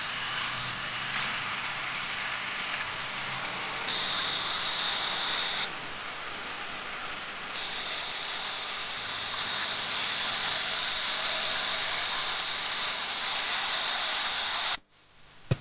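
Sizzling hiss of food cooking over a campfire. It grows louder and brighter twice with sudden jumps, then cuts off abruptly near the end.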